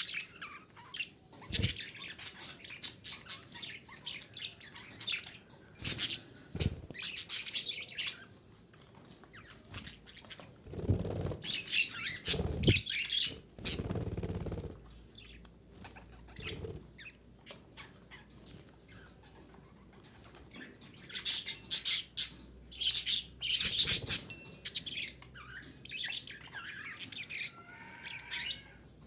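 Female budgerigars chirping and chattering in quick bursts of short, high calls that come in clusters across the whole stretch, with a few deeper fluttering bursts of wing flapping around the middle.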